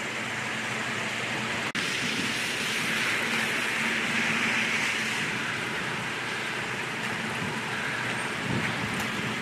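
Steady rushing hiss of a severe storm's rain and wind, with a brief dropout a little under two seconds in.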